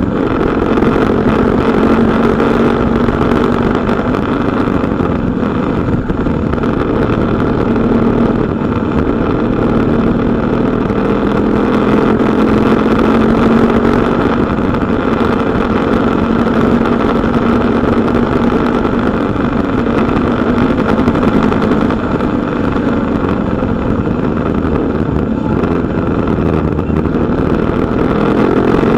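KTM Duke 250's single-cylinder engine running under way through corners, its note rising and falling a little with the throttle over a steady rush of noise.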